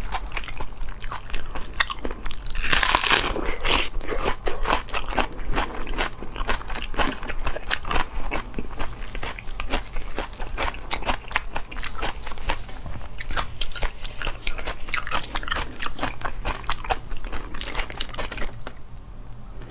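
Close-miked crunchy chewing and biting: dense, rapid crackling crunches of food being chewed in the mouth, with a louder burst of crunching about three seconds in.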